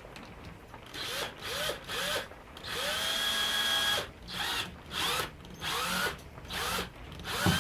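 Electric drill driving screws into wood in short trigger pulses, its motor whining up in pitch at each pull. After about a second of quiet come roughly eight brief bursts and one longer run of about a second.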